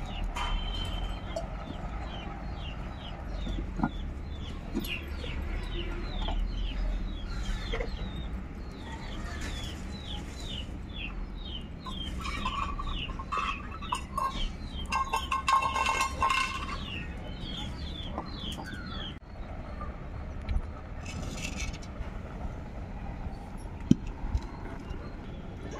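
Birds cheeping in rapid, repeated short high chirps, louder around the middle, stopping about three-quarters of the way through. A single sharp clink comes near the end.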